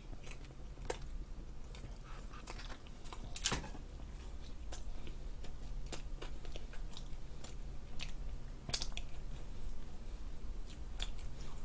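A person chewing pizza close to the microphone: irregular small crunches and mouth clicks, with a faint steady hum underneath.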